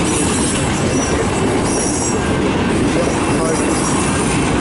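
Freight train autorack cars rolling past close by. Their steel wheels make a steady, loud rumble and rattle on the rail.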